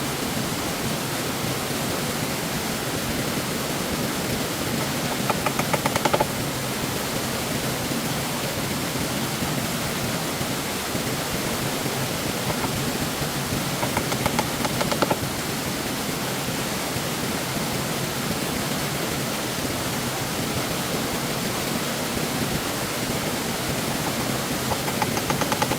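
Steady rush of stream water, with three brief bursts of rapid clicks about five, fourteen and twenty-five seconds in.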